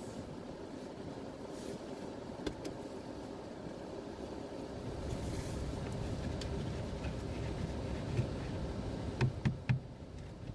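Steady low rumble of a vehicle running, growing a little louder about halfway through, with a few short knocks near the end.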